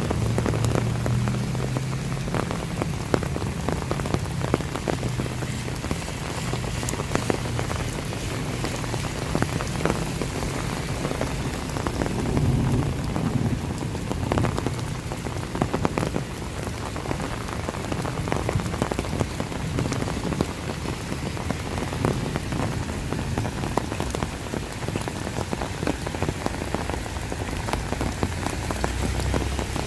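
Steady rain falling, with many separate drops ticking sharply close by throughout.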